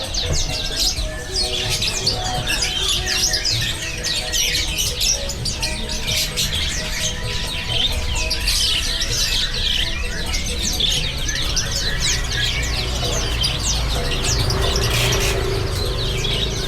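Many caged songbirds chirping and twittering at once in a dense, unbroken chorus of short high calls.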